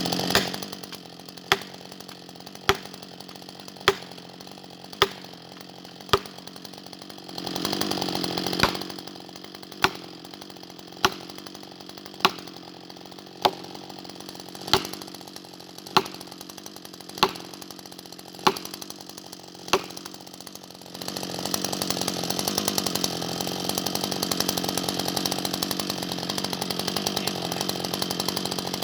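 Husqvarna 560XP two-stroke chainsaw running, with sharp regular clicks about one every 1.2 seconds over the quieter running for the first twenty seconds. About twenty seconds in, the saw gets louder and runs steadily.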